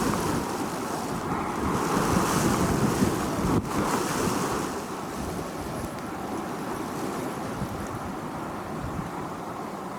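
Wind blowing on a beach with surf breaking, a steady rushing that swells and eases in gusts, with wind buffeting the microphone.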